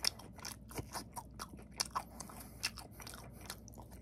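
Close-up chewing of pan-fried sausage slices in egg batter (sausage jeon), with irregular small crunches and clicks several times a second, from its browned, partly burnt edges.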